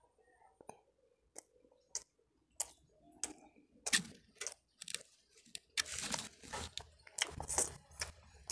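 Close-up mouth sounds of a person chewing a ham and cheese waffle sandwich: spaced-out wet clicks at first, then denser, crunchier chewing from about four seconds in.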